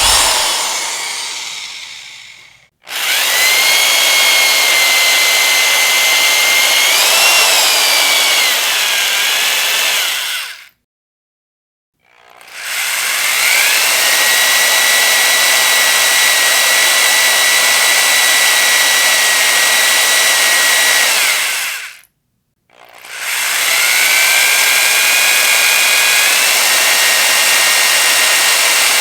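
Electric power drill running in three bursts, each several seconds long, with short stops between them. Each burst has a high motor whine that holds mostly steady and shifts pitch a little partway through. It opens with a sound that cuts in sharply and dies away over about two seconds as the drill spins down.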